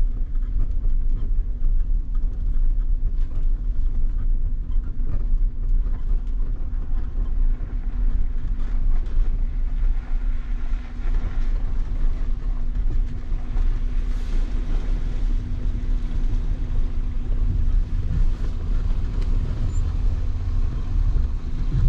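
Four-wheel-drive vehicle fording a river: a steady low engine and drivetrain rumble with a constant hum, with water washing around the vehicle.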